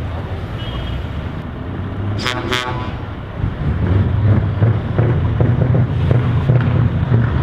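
Truck horn sounding two short blasts about two seconds in, over a truck's engine running at low pitch that grows louder about halfway through.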